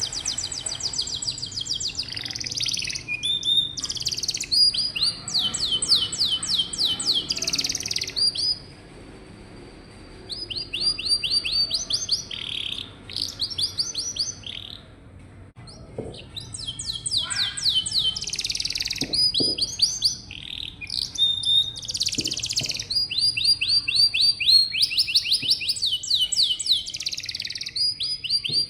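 Domestic canary singing: long rolling trills of rapidly repeated high notes, broken by short pauses about nine and fifteen seconds in.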